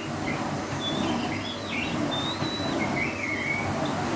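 Vacuum cleaner running with a steady low rumble, while short, high gliding chirps come and go over it.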